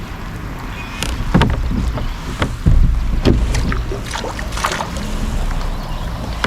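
Scattered knocks and taps aboard a kayak, several sharper ones in the middle, over a steady low rumble.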